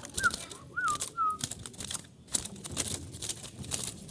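Four short whistled notes in the first second and a half, each swooping up and back down, over a run of sharp clicks and scratches.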